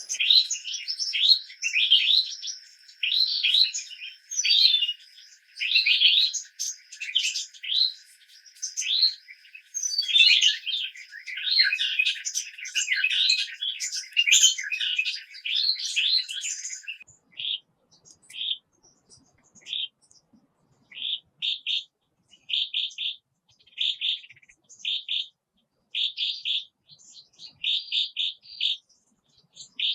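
Wild birds chirping: a dense run of quick, overlapping chirps for about the first half, then thinning to short repeated chirps with gaps between them.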